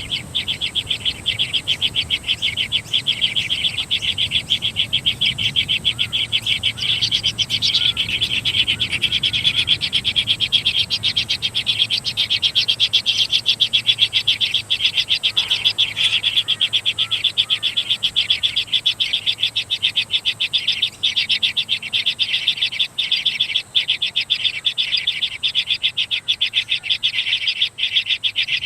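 Dense wild animal chorus: a steady, rapidly pulsing chirring that runs without a break, with a thin high steady tone above it.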